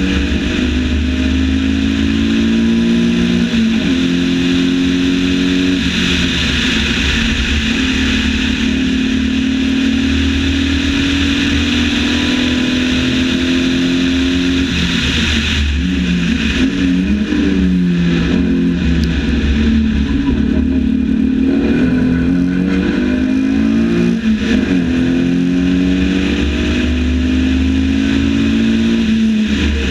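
Lotus 7 replica's engine running at high revs, its pitch held steady for the first half, then falling and climbing again several times as it shifts gears through the bends. Wind rush in the open cockpit runs underneath.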